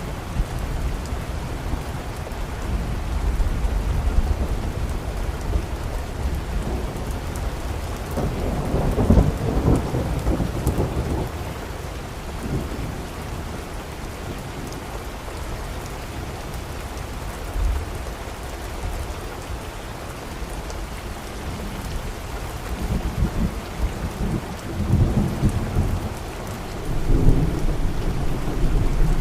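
Steady rain falling, with low rolling thunder: one long rumble swells about eight seconds in, and more rumbles build near the end.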